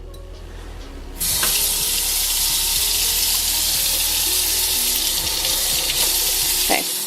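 Kitchen tap turned on about a second in, running water in a steady hiss as it tops up a mug of soapy water.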